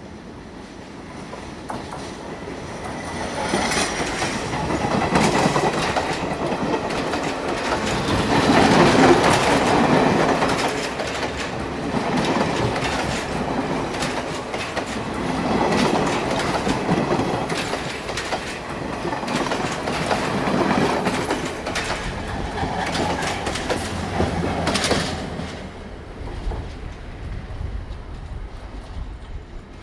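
A train passing close by on the track: its approach builds, then wheels click rhythmically over rail joints with some wheel squeal, and the sound fades away over the last few seconds.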